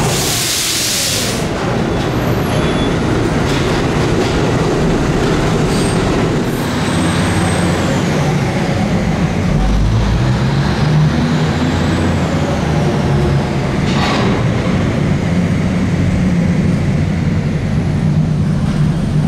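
Subway work train of locomotives and a rider car rolling slowly past on the rails: a steady rumble of wheels on track with a low hum. A high wheel squeal rises and falls twice in the middle, and there is a single clunk about two-thirds of the way in.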